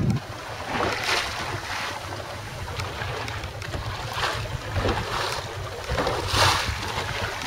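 Gale-force wind buffeting the microphone with a steady low rumble, while waves wash and splash against a boat in repeated surges, the loudest about six and a half seconds in.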